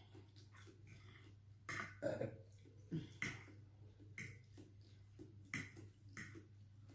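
Close-up eating sounds: a person chewing and slurping noodles in short bursts, with a few sharp crunch-like sounds, over a steady low hum.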